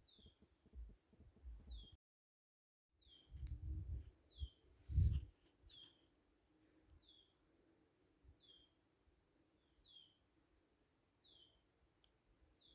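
A bird repeating a two-note call over and over, a short high note followed by a falling note, about once every second and a half. The sound cuts out completely for about a second near the start, then a few low thumps come in, the loudest about five seconds in.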